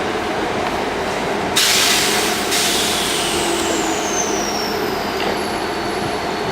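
Electric multiple-unit train standing at a station platform with a steady hum; about one and a half seconds in, a sudden hiss of air lasting about a second, typical of air brakes venting, followed by a high whine that slowly falls in pitch.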